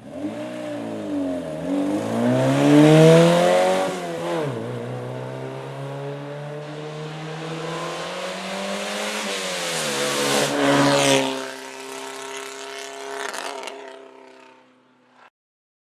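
Hill-climb race car's engine at full throttle, its note climbing and dropping with each gear change, loudest about three seconds in and again near eleven seconds, then fading away until the sound cuts off.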